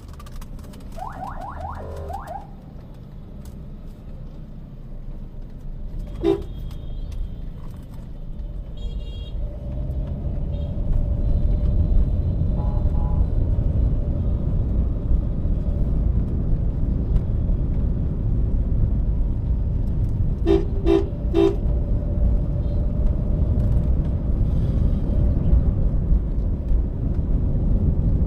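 Road and engine noise inside a moving Toyota Allion, a steady low rumble that grows louder about ten seconds in. Vehicle horns sound over it: a sliding honk about a second in and three short toots about two-thirds of the way through.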